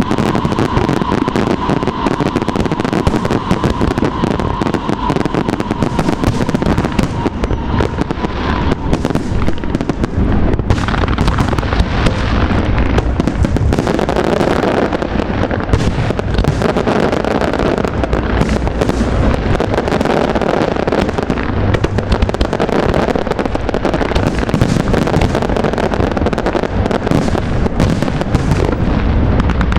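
Aerial fireworks going off in rapid, overlapping bursts and crackles, a dense continuous barrage. A steady high tone sounds through the first eight seconds or so.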